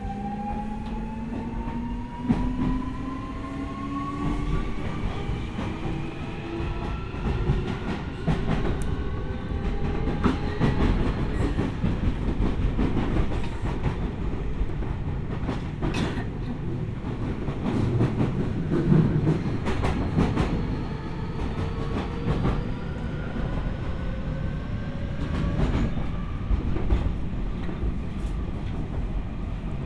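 Keio 1000 series electric train heard from inside the car while under way: the traction inverter and motors whine in several tones that rise in pitch through the first ten seconds and again in the second half as the train accelerates, with wheels clicking over rail joints and a steady running rumble.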